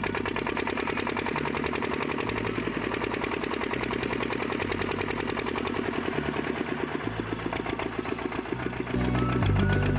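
Rapid, even chugging of a small engine-like machine, about ten beats a second, from a miniature diesel-engine-style water pump model, over background music.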